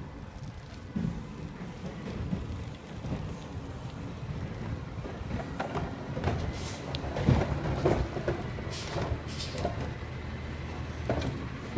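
Garbage truck engine running steadily, with several clanks and knocks about seven to eight seconds in and short hissing bursts of air around them as it works a yard-waste pickup.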